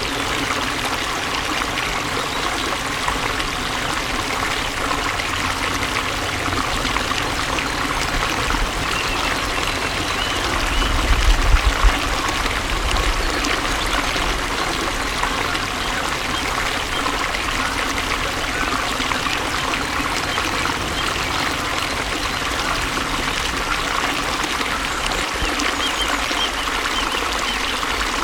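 Flowing water from a stream, trickling and splashing steadily, with a brief low rumble about eleven seconds in.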